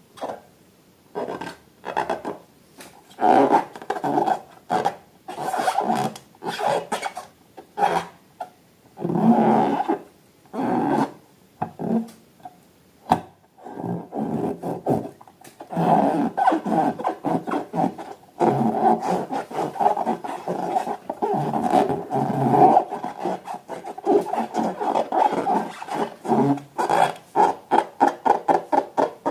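Rubber balloons squeaking and squealing in many short bursts and longer runs, with a rapid stutter of squeaks near the end.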